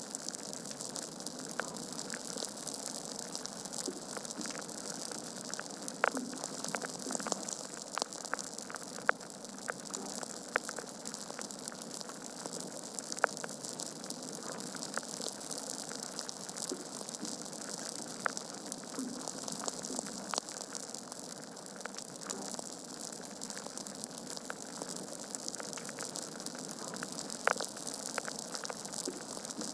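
Logs burning in a fireplace, crackling: a steady hiss with frequent sharp pops and snaps, a few of them louder.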